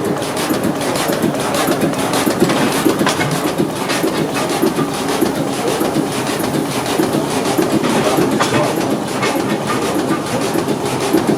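Large Deutz two-cylinder stationary diesel engine running with a steady, rapid rhythmic clatter.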